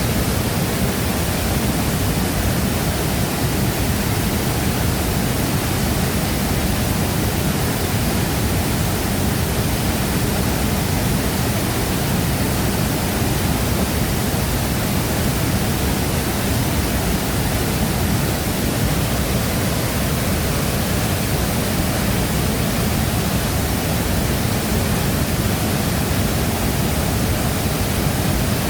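Shifen Waterfall's water pouring and crashing into its plunge pool: a loud, steady, full rush with a deep low rumble and no change throughout.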